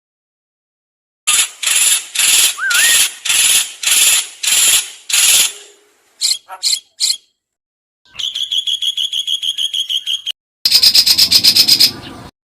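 Recorded songbird calls spliced together as shama training material: after about a second of silence, eight harsh, evenly spaced notes, then three short high notes, then two fast rattling trills, each phrase cut off abruptly.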